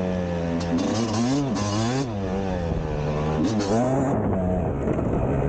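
Yamaha YZ250 two-stroke motocross bike being ridden, its engine revving up and falling back again and again as the throttle is worked, with a few short rising revs in the first two seconds and another near four seconds in.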